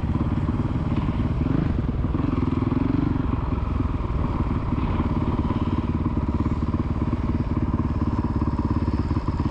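Small kids' motocross bike engine running steadily at low revs, without revving up.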